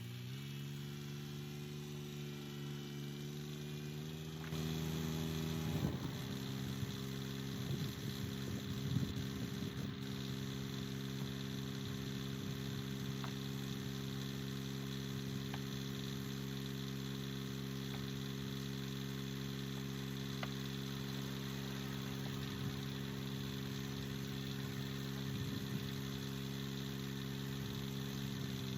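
Woodland Mills HM122 sawmill's gas engine running at a steady speed. Its pitch rises slightly in the first second, and it gets louder about four seconds in, with a few scattered knocks soon after.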